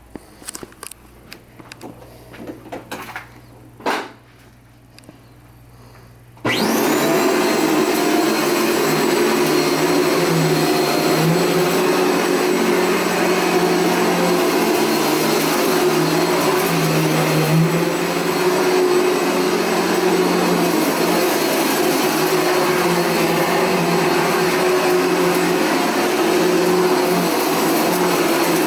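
A few clicks and knocks, then about six seconds in a Dirt Devil Featherlite upright vacuum cleaner switches on and runs steadily, vacuuming a rug.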